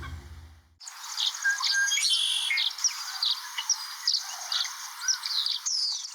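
Birds chirping: many short, high calls and trills overlapping. They start suddenly about a second in and cut off near the end.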